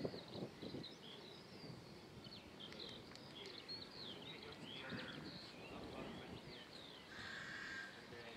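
Small birds chirping and twittering again and again in short, high, quick notes over a faint low rumble.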